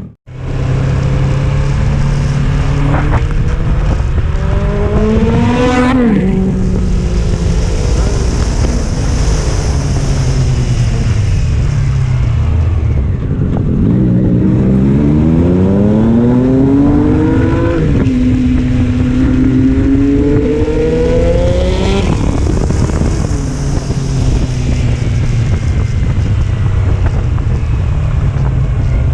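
Sport motorcycle engine accelerating hard through the gears. Its pitch climbs and drops sharply on an upshift about six seconds in, then climbs again with further upshifts and settles into a steady cruise, with wind rushing over the microphone at speed.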